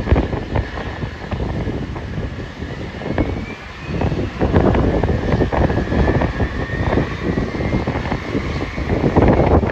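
Jet aircraft engines whining at the airport, a high whine that slowly rises in pitch, under heavy gusts of wind buffeting the microphone.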